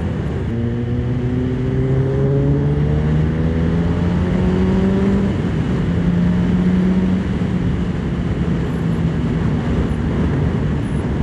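Honda CBR900RR Fireblade's 929 cc inline-four engine pulling hard through a Racefit titanium exhaust, its note rising steadily for about five seconds and then levelling off, over wind rush.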